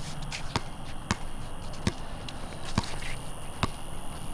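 Basketball being dribbled: five sharp bounces, about one every second.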